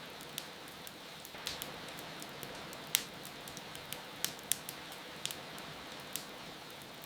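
Wood fire crackling, with irregular sharp pops (the loudest about three seconds in), over a steady hiss of rain.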